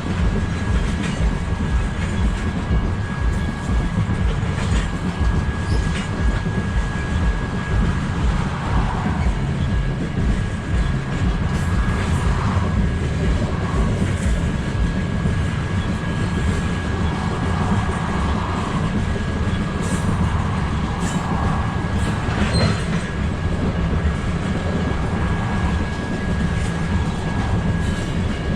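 BNSF freight cars rolling past in a long train: a steady heavy rumble of steel wheels on the rails, with scattered clicks and clacks over the rail joints.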